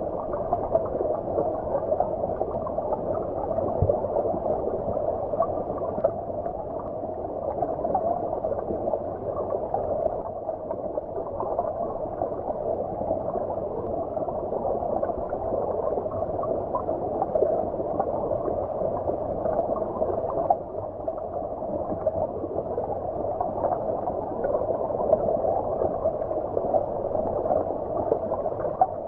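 A stream's flowing water heard underwater: a steady, muffled rush with no high hiss, its sound cut off above the low-middle range.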